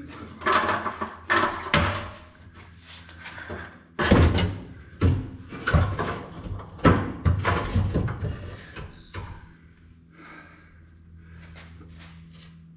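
Irregular metal clanks and knocks of hand tools and truck parts being worked on, the loudest knock about four seconds in, thinning out near the end. A low steady hum runs underneath.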